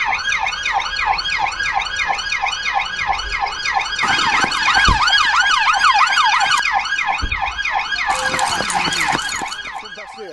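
Police car siren on its fast yelp, rising and falling about four times a second, fading near the end. Two low thumps come in the middle.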